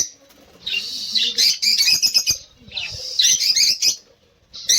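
A flock of budgerigars chirping and chattering in quick warbling bouts, with brief pauses between them.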